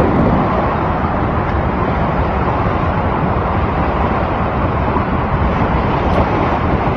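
Flash floodwater rushing down a valley bed: a loud, steady noise of churning water with no let-up.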